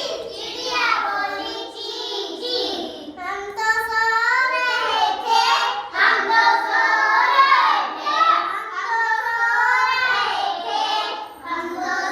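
A young girl singing a Hindi children's song, her high voice gliding up and down through the melody with short breaks between phrases.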